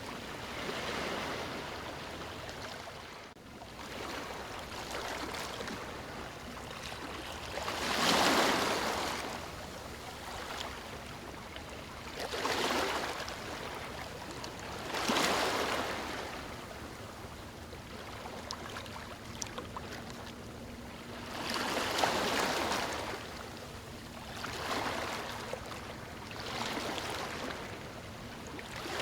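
Small waves splashing and washing in, with a louder surge every few seconds over a steady rush of water.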